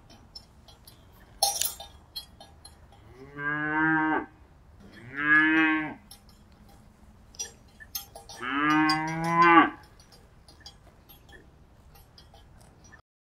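A cow mooing three times, each a drawn-out low call, the third the longest. A cowbell clanks once about a second and a half in, with light clinking between the calls.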